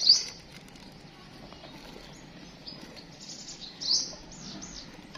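Small birds chirping in short, high, falling notes. The loudest call comes right at the start and a quick run of chirps follows around three to four seconds in, over a low steady background hiss.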